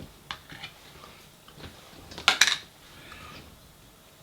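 Cutlery clinking against a dish during a meal: a few light taps, then one louder clatter a little over two seconds in.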